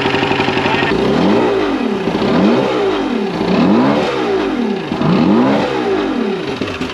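Mercury 175 EFI outboard engine running on a water hookup. After a steady first second its speed surges up and down about once a second, and it cuts off at the very end. The owner suspects a fuel problem.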